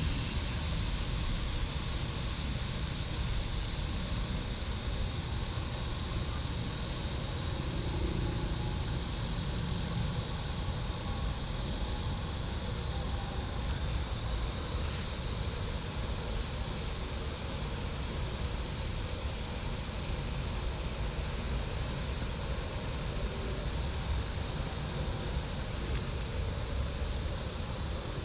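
Steady outdoor background noise: a low rumble with a constant high hiss over it and no distinct events.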